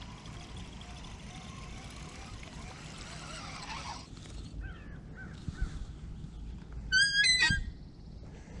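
A bird's loud, harsh honking call about seven seconds in, over a steady hiss. A few short chirps come a couple of seconds before it.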